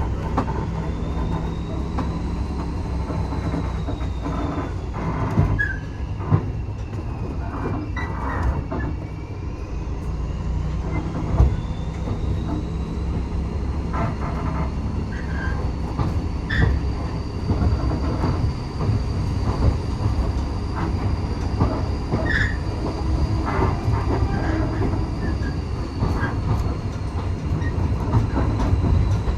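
Railway carriage running along the track: a steady low rumble of wheels on rail, with irregular clicks and knocks, and a faint high squeal from the wheels that dips and rises in pitch.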